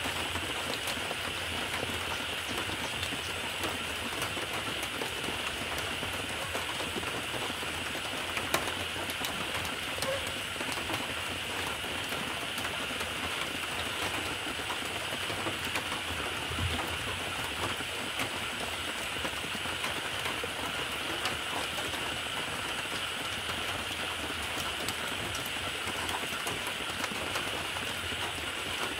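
Steady, even hiss of noise that holds one level throughout, with faint scattered ticks.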